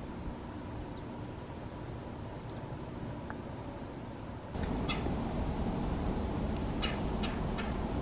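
A few short, high bird chirps and sharp call notes over a steady background rumble. The rumble gets louder about halfway through.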